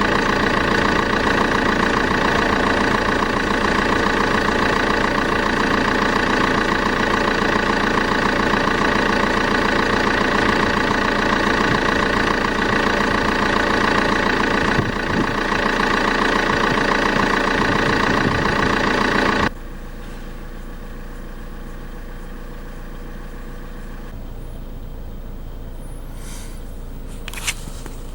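Vauxhall Insignia's 2.0-litre CDTI turbo diesel idling steadily while warming up after a cold start. About two-thirds of the way through, the sound drops abruptly to a much quieter, muffled steady hum, and a few sharp clicks come near the end.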